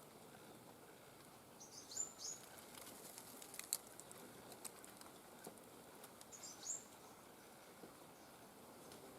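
Small songbird giving two short, high chirping calls about four seconds apart, with a few faint sharp clicks or taps between them.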